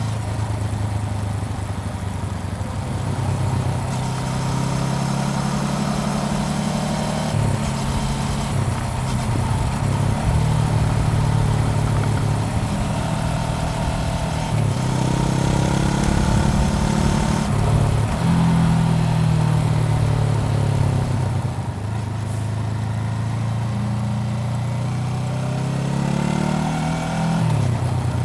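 Honda CBR400R's parallel-twin engine heard on board while riding, its note holding steady between several shifts in pitch and falling near the end, over a rush of wind noise.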